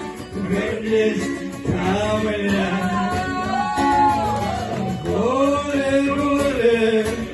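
A man singing a melody with long held, sliding notes over guitar accompaniment.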